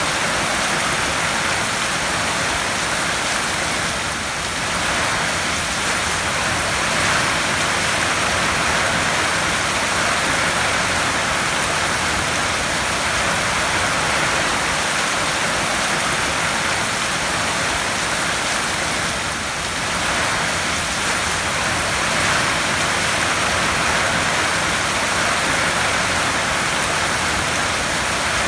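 Heavy rain drumming on a tin roof: a dense, steady hiss of drops on sheet metal that eases very slightly twice, about four seconds in and again near twenty seconds in.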